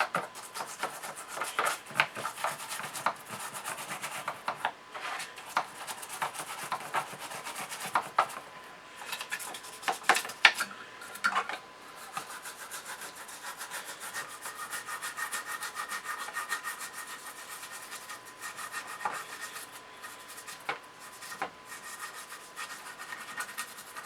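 Toothbrush scrubbing grime off an aluminium chassis in quick back-and-forth strokes, with a few sharper knocks about ten seconds in.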